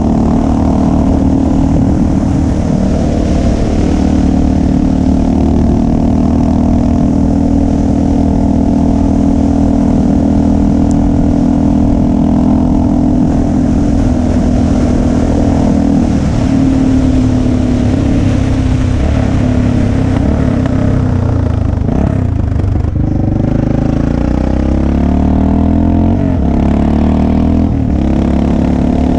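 Motorcycle engine running steadily while riding along, with a shift in engine pitch about two-thirds of the way through and a brief dip, as at a gear change or easing off the throttle, shortly after.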